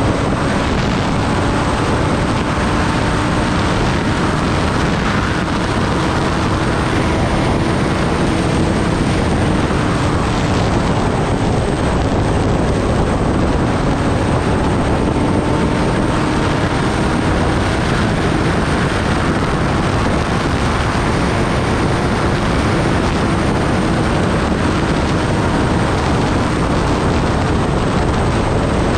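Kawasaki Ninja ZX-10R's inline-four engine running at a steady cruise, its note drifting only slightly in pitch, under a loud, even rush of wind on the microphone.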